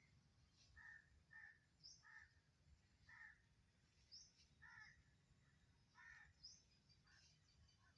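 Rufous treepie calling: a string of short harsh calls, about one a second, with thin high chirps in between.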